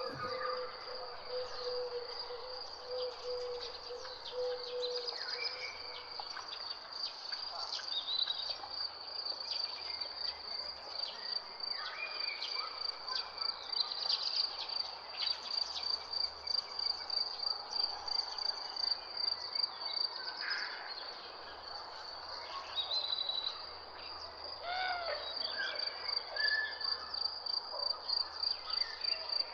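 Nature ambience: a cricket-like insect chirping in a steady, rapidly pulsing high trill, with scattered bird calls over it. A low, drawn-out note sounds through the first five seconds.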